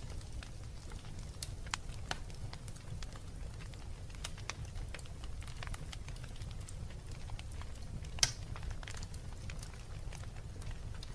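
Wood fire crackling in a fireplace: scattered snaps and pops over a low, steady rumble of the flames, with one louder pop about eight seconds in.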